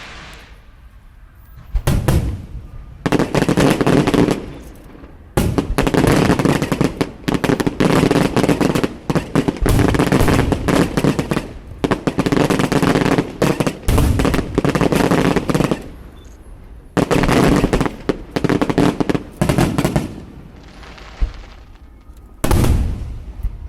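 Fireworks going off in dense barrages of rapid bangs and crackling. The barrages come in several runs: a long one lasting most of the first two-thirds, a shorter one after a brief lull, and a last short burst near the end.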